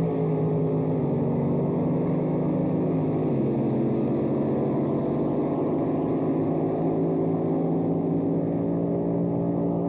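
Drag boat engine running steadily at low speed, with its pitch dropping a step about three seconds in.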